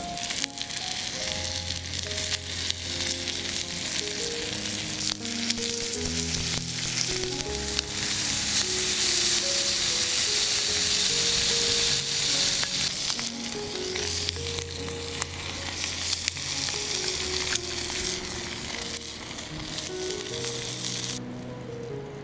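Food frying in a pan over a campfire, with a dense sizzle and fine crackling that swells in the middle and cuts off suddenly near the end.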